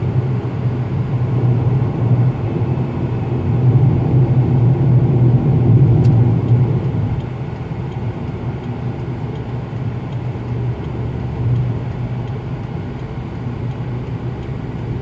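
Cabin noise of a 2019 Proton Persona on the move: steady road and tyre noise with a low humming sound carrying into the cabin. It gets somewhat quieter about halfway through.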